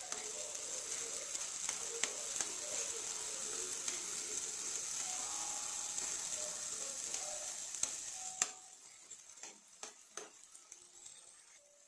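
Chopped vegetables and sauces sizzling in oil in a non-stick frying pan while a metal spatula stirs them, with scattered clicks and scrapes of the spatula on the pan. The sizzling falls away about eight seconds in, leaving a few quieter scrapes.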